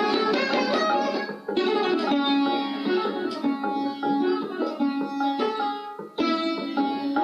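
Indian plucked string instrument playing a fast, continuous run of notes in raag Kirvani, with short breaks about a second and a half in and about six seconds in.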